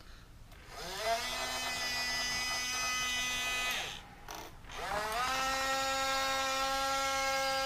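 Small geared electric steering motor of a Hobby Engine RC wheel loader whining as it swings the steering one way and then back, twice: each run rises in pitch as it spins up, holds steady for about three seconds, then stops. The motor cuts off at the end of travel, stopped by newly fitted micro-switch end stops, with no gear clicking.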